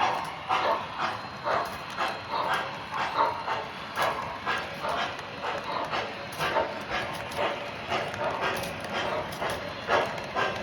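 Model Decapod steam locomotive, a Mike's Train House replica of Strasburg No. 90, running with a steady rhythmic chuff and clatter of about two beats a second.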